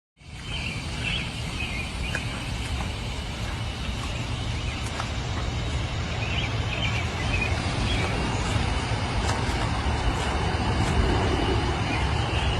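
Suzuki GSX-R 600 K7 inline four-cylinder engine idling steadily through an aftermarket M4 carbon exhaust, a deep even exhaust note with no revving.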